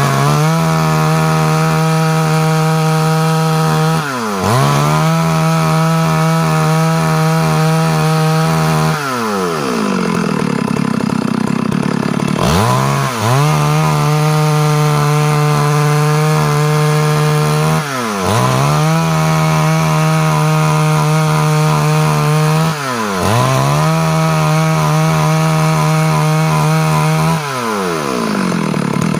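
Stihl MS 382 two-stroke chainsaw cutting wood at full throttle with a steady high pitch. About every four to five seconds the throttle is eased and opened again, so the pitch dips and climbs back. There is a longer dip at lower revs about a third of the way through.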